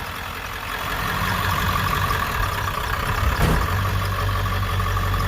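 A Ford 7.3-litre diesel V8 idling steadily, with one short knock about three and a half seconds in.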